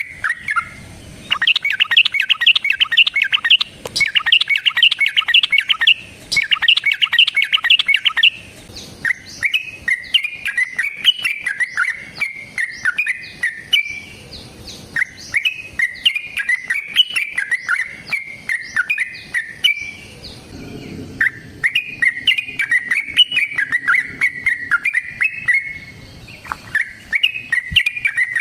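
Yellow-vented bulbul (trucukan) singing loudly in the fast, long-running 'ropel' style. A dense rapid chattering run comes in the first eight seconds, then a long series of bubbly, rising-and-falling phrases with short pauses between them.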